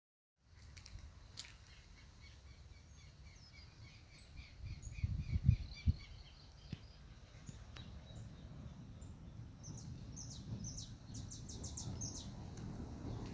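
Birds chirping: a run of short, evenly spaced notes through the first half, and a quick series of higher chirps near the end, over a low rumble with a few low thumps about five seconds in.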